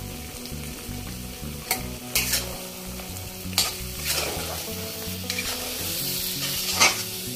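Potatoes, onion-tomato paste and ground spices sizzling in hot oil in a kadai while a spatula stirs the mix. Several sharp scrapes of the spatula against the pan come through the steady sizzle, the loudest near the end.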